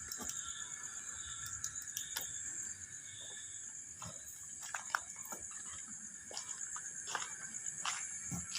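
Steady night chorus of insects such as crickets, a continuous high-pitched shrilling. Scattered short clicks and knocks sound over it.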